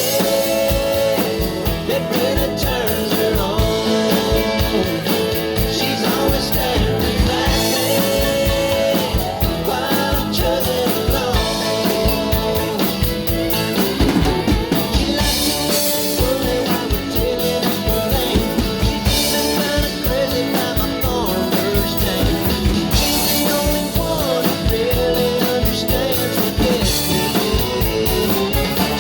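A drum kit played along with a recorded country song, keeping a steady beat over guitar and vocals.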